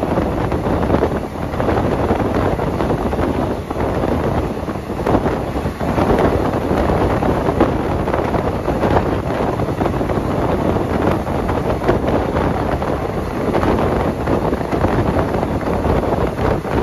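Passenger express train running at speed, heard from its coach: a steady, loud rumble of wheels on rails with wind buffeting the microphone.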